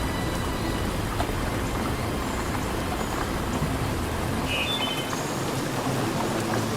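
Steady rain noise with a low rumble underneath that drops away about two-thirds of the way through.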